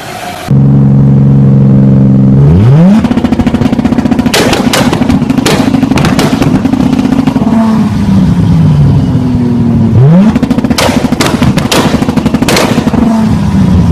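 Toyota Supra's big-turbo straight-six engine revved hard through a loud exhaust. It holds a steady note, climbs sharply about two and a half seconds in, and falls back before revving again about ten seconds in. Each time the revs are held high, rapid sharp cracks ring out from the exhaust.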